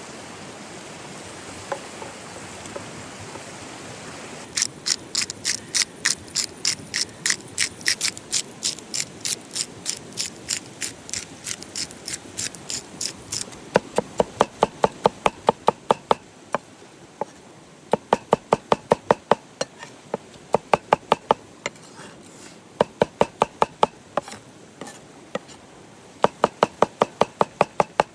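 Knife chopping rapidly on a wooden cutting board, after a few seconds of steady hiss. First comes a long even run of sharp taps, about three a second. From about halfway it changes to short bursts of faster, duller chops with brief pauses between.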